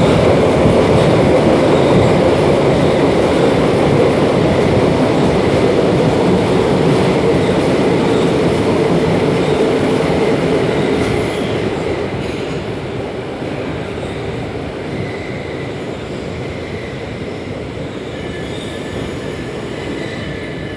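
Inside a class 472 S-Bahn electric multiple unit running through a tunnel: a steady rumble from the wheels and running gear that grows quieter about eleven seconds in. Thin, faint wheel squeal comes and goes near the end.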